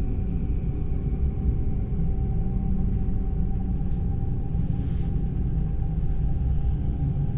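Steady low rumble of an electric passenger train rolling slowly through a station, heard from inside the carriage, with a faint steady whine over it. A brief hiss comes about five seconds in.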